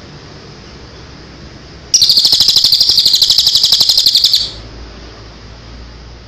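A songbird gives one loud, rapid trill of about ten notes a second, lasting roughly two and a half seconds and beginning about two seconds in, over a steady recording hiss.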